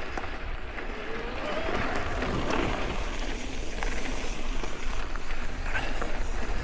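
Mountain bike rolling down a loose dirt descent: tyres crunching over loose gravel and rock, with scattered rattles and knocks as the bike goes over bumps.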